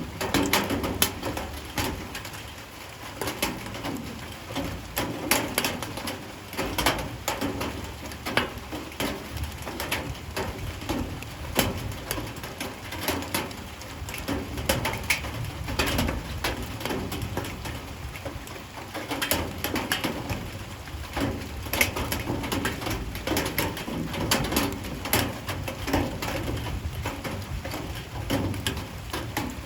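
Light rain falling and dripping onto surfaces, with many sharp, irregular drop impacts over a steady patter. A bird calls low and repeatedly in the background.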